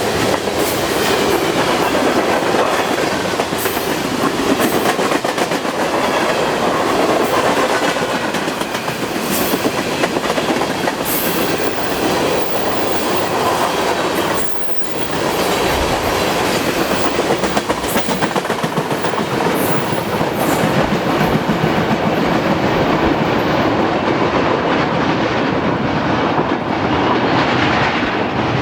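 Long CN freight train rolling past at speed, its wheels clattering rhythmically over the rail joints with a steady rumble. The high hiss thins out over the last few seconds.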